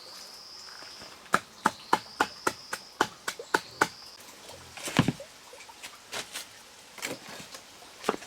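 A knife chopping through a banana stem in quick, even strokes, about three or four a second, then a heavier chop and a few scattered cuts. A high insect trill buzzes in short repeated stretches in the first half.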